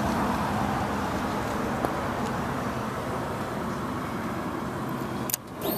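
A Suzuki GSX-R1000's inline-four engine idling steadily. The sound cuts out abruptly with a click a little over five seconds in.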